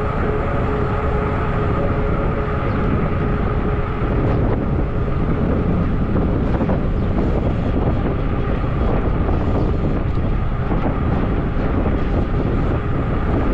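Steady wind noise on the microphone of an e-bike rider's helmet camera while riding at speed, with the fat-tire e-bike's rolling hum underneath.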